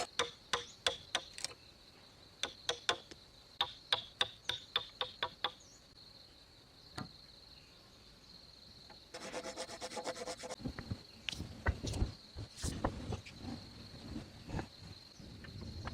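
Wood being worked by hand: a run of short scraping strokes, about three a second, then after a pause a quick burst of rapid rubbing strokes and a few heavier knocks. A steady high insect trill runs underneath.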